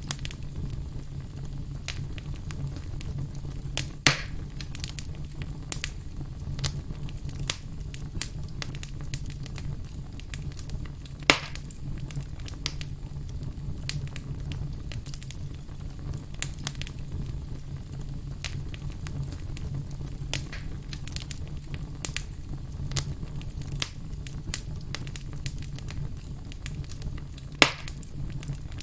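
Burning firewood crackling, with frequent small snaps over a steady low rumble and three much louder sharp pops spread across the stretch.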